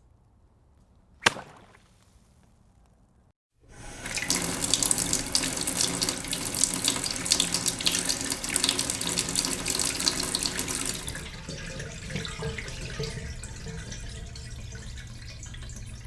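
A single sharp splash of a rock dropped into water about a second in. After a short gap, water starts rushing down a sink drain, loud for about seven seconds, then easing to a quieter steady draining.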